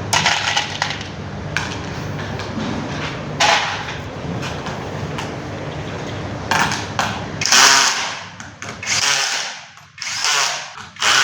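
Electric screwdriver running, driving the terminal screws that fasten copper busbars onto lithium battery cells. It runs steadily for most of the time, then gives three short bursts near the end as screws are run down.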